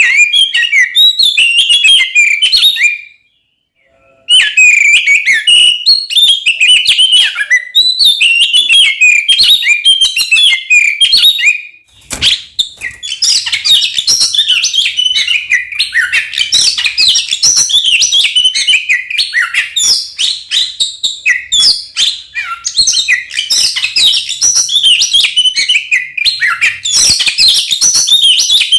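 Oriental magpie-robin (kacer) singing a loud, fast, varied song of whistles and chattering notes. It is the aggressive fighting song of a bird in full voice ('gacor ngeplong tarung'). The song stops briefly about three seconds in and runs denser from about twelve seconds on.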